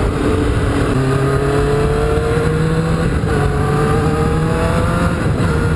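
Kawasaki Ninja motorcycle engine pulling under acceleration, its pitch climbing slowly, dropping at a gear change about three seconds in, then climbing again. Wind rushes over the helmet microphone.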